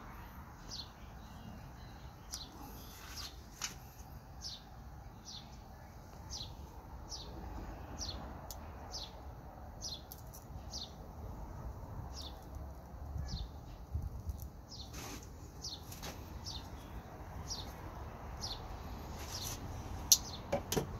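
A small bird chirping over and over in a steady series of short falling chirps, about three every two seconds. A sharp click near the end is the loudest sound.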